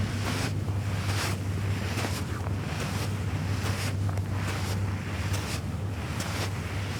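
Small river waves washing and lapping at the Thames foreshore in quick, repeated swells, over a steady low engine hum.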